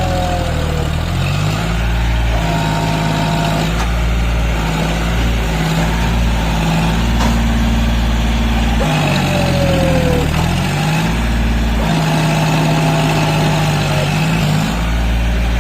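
Tractor diesel engine running, its speed rising and falling several times, with pitch drops near the start and about nine seconds in and steadier running between them.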